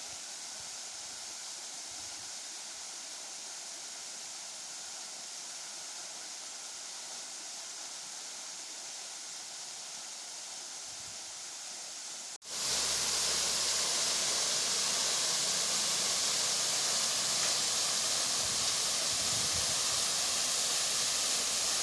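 Waterfall: a steady rush of falling water. About halfway through it cuts out for a moment and comes back louder and fuller.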